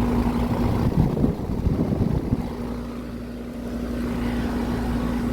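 New Lennox central air conditioner condensing unit running: a steady, very quiet hum from the compressor and outdoor fan. About a second in, a few knocks and rustles briefly break up the hum.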